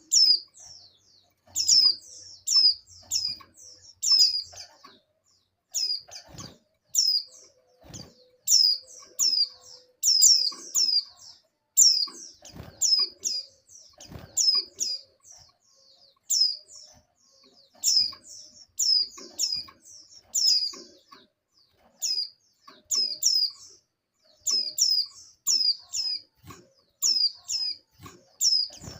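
Female white-eye (pleci) calling: quick groups of two to four high, downward-sliding chirps, repeated over and over with short gaps. This is the call of a female in breeding condition calling for a male. A few faint soft thumps come in between the calls.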